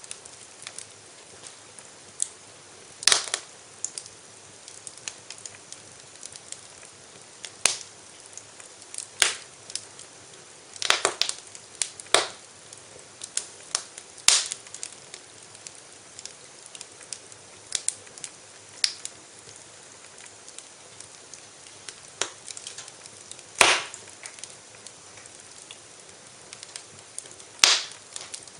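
Wood fire in a fireplace crackling, with irregular sharp pops over a soft steady hiss; the loudest pops come about three, eight, nine, eleven, fourteen, twenty-four and twenty-eight seconds in.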